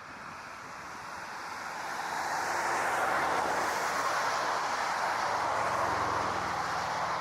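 Jet airliner engines approaching on landing, the rushing roar growing louder over about three seconds and then holding steady.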